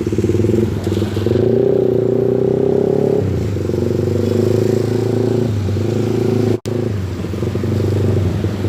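Honda CBR150R single-cylinder engine running through a BRT Juken 5 racing exhaust. It is held at a raised rev for about two seconds starting about a second in, then drops back to a steady idle. The sound cuts out for a split second near the end.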